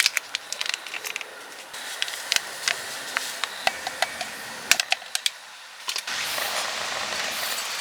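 Small clicks and taps of a tea packet and cup being handled, then a steady hiss from about six seconds in.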